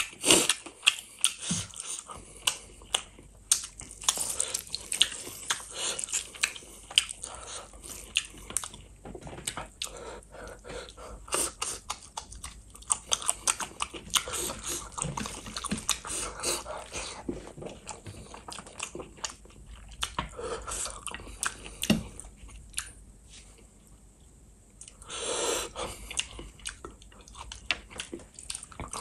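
Close-miked chewing and biting on chicken feet in spicy gravy: a dense, irregular run of short clicks, smacks and crunches from the mouth.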